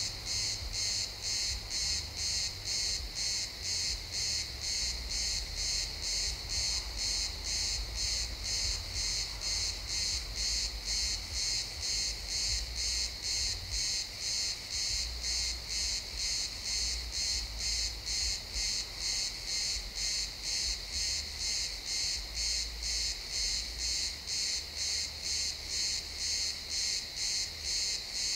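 Crickets chirping in a pine forest, a steady high-pitched pulsing at about two chirps a second that keeps on without a break.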